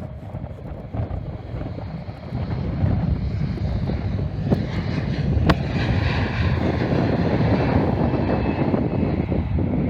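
Jet airliner passing close by: its engine rumble builds over the first few seconds and stays loud, with the engines' whine rising above it from about halfway. There is a single sharp click about halfway through.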